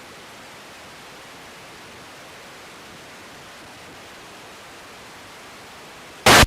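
Steady radio static hiss from an air traffic control feed between transmissions. Near the end, a sudden loud burst as a transmission keys up.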